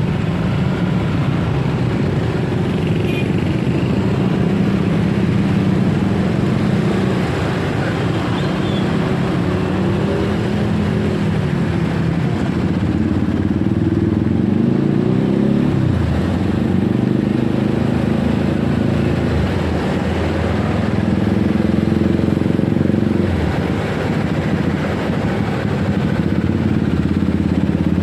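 Motorcycle engine running while riding, its note rising and falling with the throttle over steady road noise.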